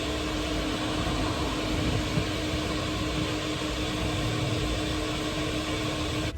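Long-hosed vacuum cleaner running steadily with a constant hum over its rushing air noise, then shut off suddenly near the end.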